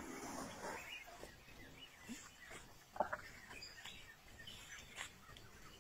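Faint outdoor ambience with birds chirping. There is rustling early on and one sharp crack or snap about three seconds in.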